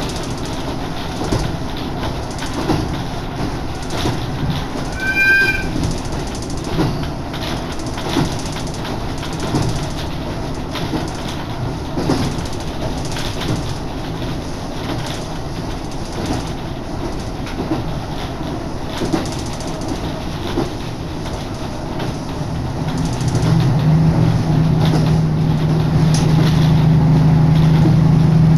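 Diesel railcar running along the track, heard at an open window with wind rushing past: a steady rumble with irregular clicks of the wheels over the rails. A brief high tone sounds about five seconds in, and near the end a steady low drone comes in as the running grows louder.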